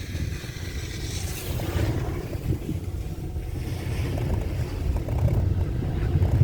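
Wind buffeting the microphone as a low, gusting rumble while riding an open chairlift, with a brief rushing hiss about a second in.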